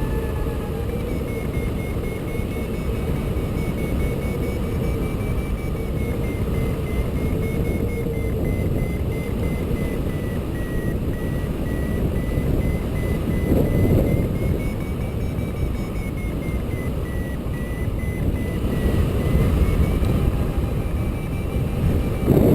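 Air rushing over the microphone of a hang glider on truck tow, with a thin tone that wavers slowly up and down and faint rapid beeping from the glider's variometer.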